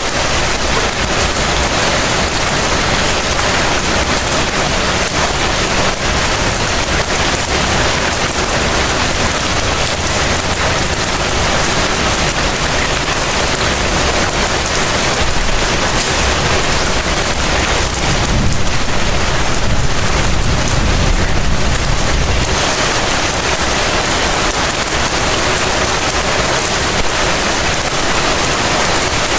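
Heavy rain falling steadily in an even hiss, with a low rumble swelling briefly a little past the middle.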